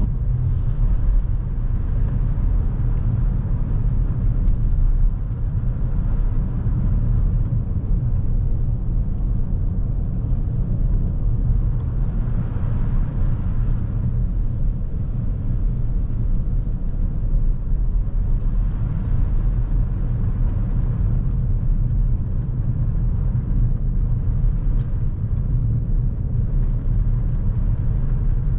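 A Lexus NX350h hybrid SUV on the move: a steady low road-and-tyre rumble, with two gentle swells of brighter noise partway through.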